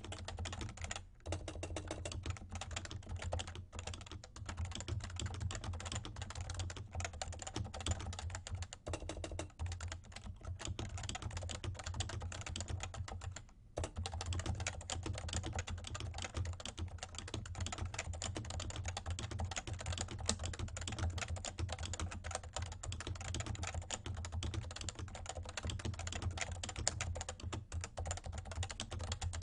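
Steady, fast typing on a Realforce R2 tenkeyless keyboard with light 30 g Topre electrostatic-capacitive switches, a dense run of keystrokes. There are short pauses about a second in and about halfway through.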